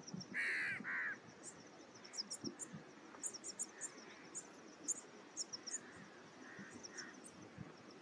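Wild birds calling: two loud, harsh, caw-like calls about half a second in, followed by a scatter of thin, high chirps from smaller birds.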